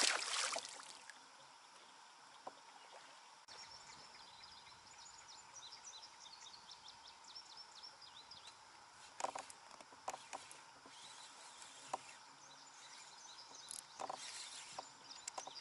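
Quiet ambience on a river from a kayak: a bird sings a fast run of high chirps for several seconds, and a few sharp knocks sound later on.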